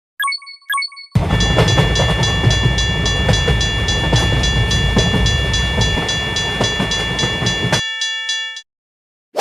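Two short chime sound effects, then a train rumbling past while a railway level-crossing bell rings in a fast, even, repeating rhythm. The rumble stops suddenly near the end, and the bell tones carry on briefly after it.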